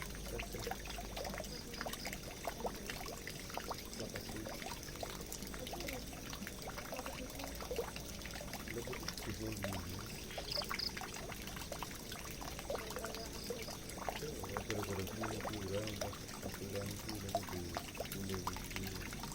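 Water pouring and trickling steadily into a drain, with many small splashes and a wavering gurgle underneath.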